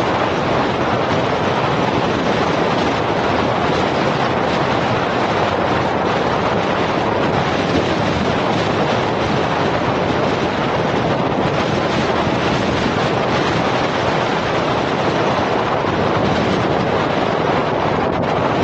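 Steady rush of wind and road noise from a moving vehicle, with wind on the microphone.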